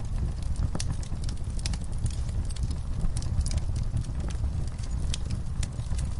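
Wood fire burning in a fireplace: a steady low flame noise with frequent, irregular sharp crackles and pops from the burning logs.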